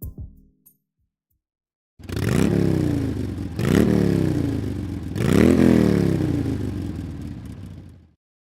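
An engine revving three times, each time rising quickly in pitch and then falling away slowly, motorcycle-like.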